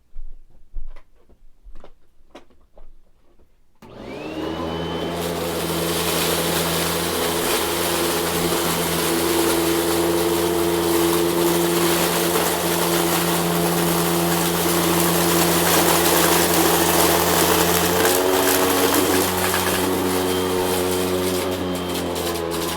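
A few clicks, then a Hoover vacuum cleaner switched on about four seconds in: its motor whines up to speed and settles into a steady run, its pitch shifting briefly near the end as the load changes.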